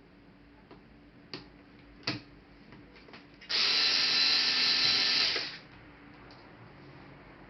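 Two sharp clicks, then a small electric screwdriver runs steadily for about two seconds, driving a laptop case screw.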